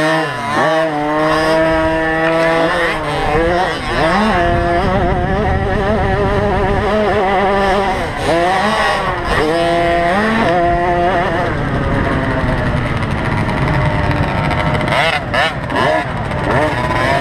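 Small two-stroke motocross bike engines racing, revving up and down over and over with several sharp rising sweeps in pitch.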